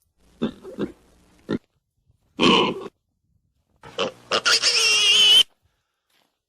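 Domestic pig grunting in a few short calls, then giving a longer, high-pitched squeal about five seconds in.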